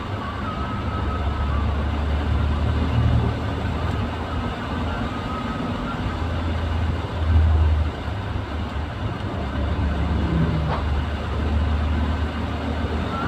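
Steady low engine and road noise of a moving vehicle, swelling briefly about seven seconds in.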